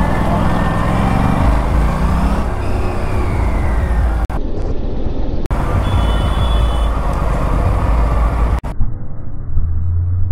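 Aprilia RS 457 parallel-twin engine running under way with road and wind noise, its pitch rising and falling with the throttle over the first few seconds. A brief high steady tone comes about six seconds in, and the sound cuts abruptly three times.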